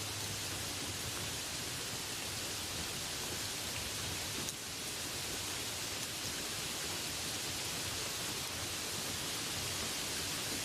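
Steady rain falling, an even hiss without pause.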